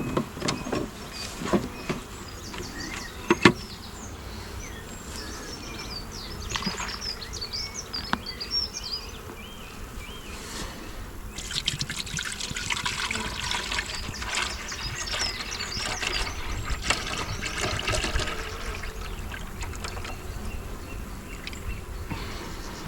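Honeybees humming around an open hive while a frame feeder is knocked into place. From about halfway through, liquid feed is poured into the feeder for roughly ten seconds.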